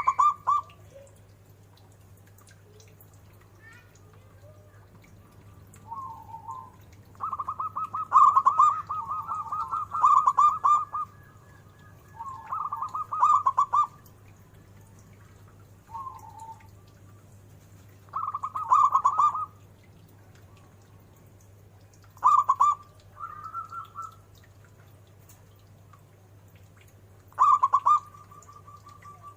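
Zebra dove (perkutut) cooing: repeated bouts of its rapid, staccato rolling coo, each a second or two long, with pauses of a few seconds between them.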